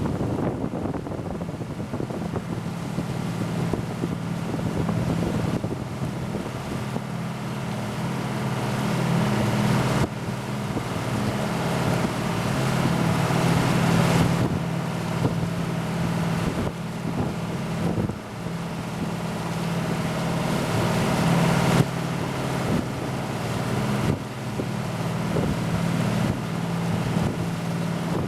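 Motor yacht's inboard engines running steadily at slow cruising speed, a low even hum, with wind gusting on the microphone.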